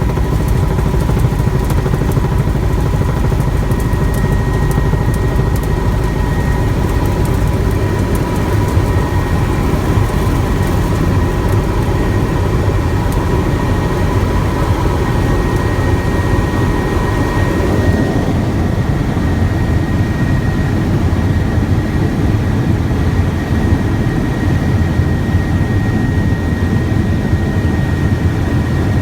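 Helicopter in flight: the steady rumble of the rotor and engine, with a high, constant turbine whine. About eighteen seconds in, one of the whine tones fades and the low rumble shifts slightly.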